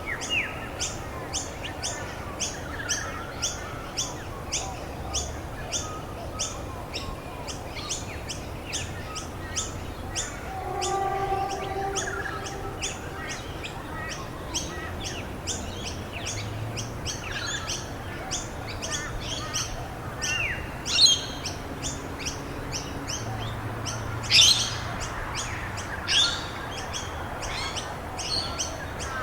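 Birds calling outdoors: one bird repeats a short high chirp about twice a second, and a few louder calls sweep downward in pitch in the second half, over a steady background hiss.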